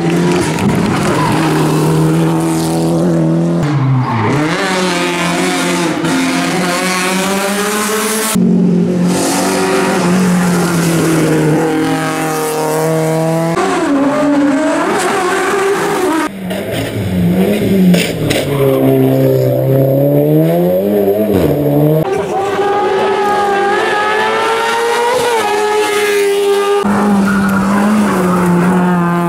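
Hillclimb racing car engines at full throttle, revving up through the gears so the pitch climbs and drops again and again. The sound changes abruptly several times as one car gives way to another.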